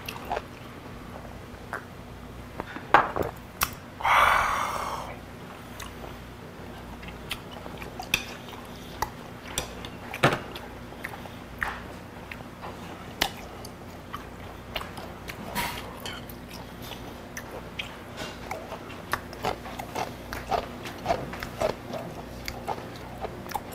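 Close-miked chewing and wet mouth sounds of a man eating raw beef, with scattered light clicks of chopsticks on dishes. A short breathy sound comes about four seconds in.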